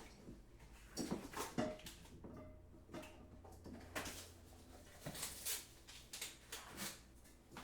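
Quiet kitchen handling sounds: scattered light knocks and clinks of crockery and utensils, a few of them briefly ringing.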